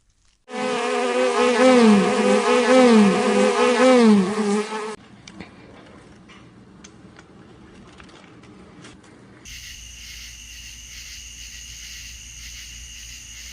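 A farm animal's long, wavering call, about four seconds long and buzzy, with its pitch dipping again and again. After it comes quieter background noise, and near the end a fainter steady hum begins.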